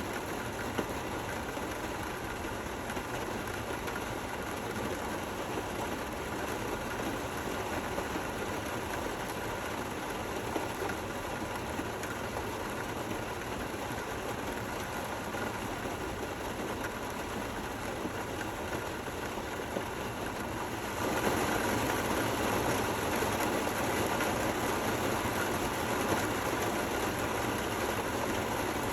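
Steady rain falling, an even hiss with no thunder, that turns suddenly louder about three-quarters of the way through.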